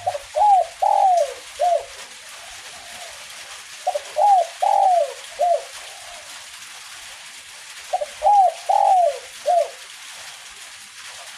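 Spotted dove (derkuku) cooing: three phrases about four seconds apart, each of four notes. A steady hiss of light drizzle runs underneath.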